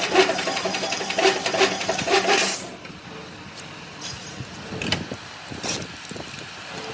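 Tyre-factory machinery running with a rapid clatter and a steady hum, which stops abruptly about two and a half seconds in, leaving quieter background noise with a few scattered knocks.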